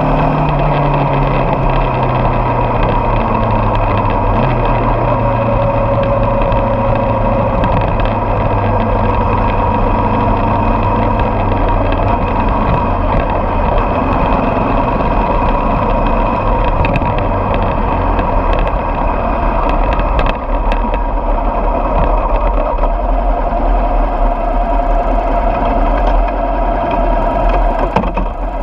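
Motorcycle engine running steadily under way, with a low engine note easing down in pitch over the first few seconds.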